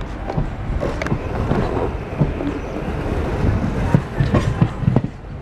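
Train running along the track: a steady rumble with irregular clicks and knocks from the wheels and carriage.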